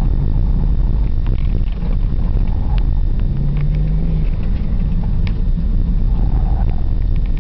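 Mitsubishi 3000GT VR-4's twin-turbo V6 and road noise heard from inside the cabin while the car is driven hard on an autocross course: a loud low rumble, with the engine note holding steady for about a second near the middle, and scattered clicks.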